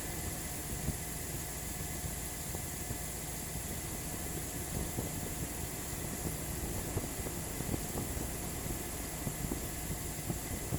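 1999 GMC Suburban 1500's gasoline engine idling steadily, with a low rumble and light irregular ticking.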